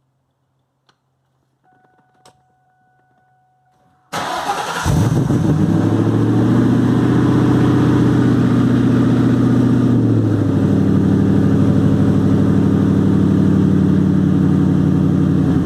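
Cold start of a 2003 Roush Stage 3 Mustang's supercharged V8: after a couple of faint clicks and a faint steady tone, the starter cranks briefly about four seconds in and the engine catches, then runs at a loud, steady fast idle that drops slightly in pitch about ten seconds in.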